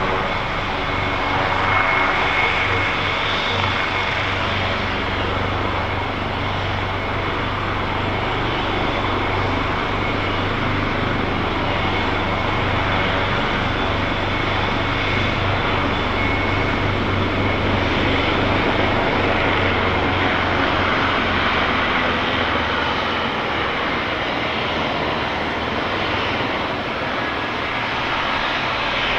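AW139 helicopter running steadily: its two Pratt & Whitney Canada PT6C turboshaft engines and five-bladed rotor give a steady high turbine whine over a deep rotor hum and dense rushing noise.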